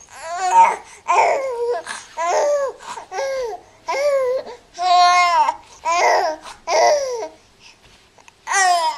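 A three-month-old baby babbling and cooing, a string of short high-pitched vocal sounds about one a second, with a brief pause near the end.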